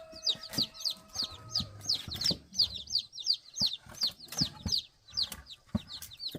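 Chicks peeping in a rapid, continual run of short high notes, about three to four a second, with a few scattered knocks.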